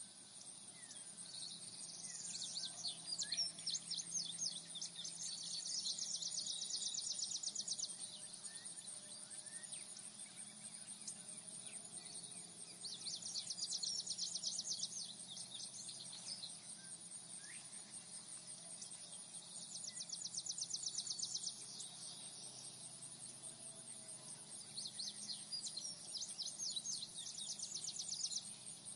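Outdoor nature ambience: a steady high insect drone, with rapid trills lasting two to three seconds that recur about every six seconds, and a few faint bird chirps.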